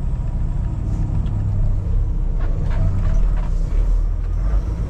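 Diesel engine of a Kenworth T680 semi truck running at low speed, heard from inside the cab as a steady low rumble that grows stronger in the second half.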